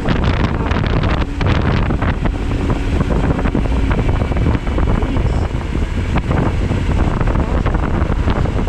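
Heavy, steady wind noise rushing over the microphone of a motorcycle rider's camera at riding speed.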